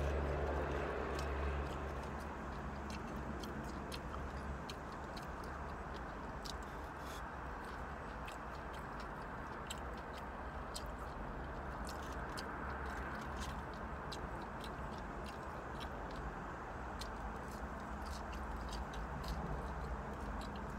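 Close-up chewing and wet mouth clicks from someone eating fried catfish and fries, over a steady low hum in the car cabin.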